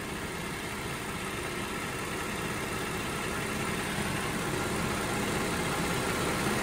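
Holden Alloytec V6 engine idling steadily with the oil filler cap off, with no sucking noise at the open filler neck: after cleaning, the PCV system no longer pulls strong vacuum on the crankcase.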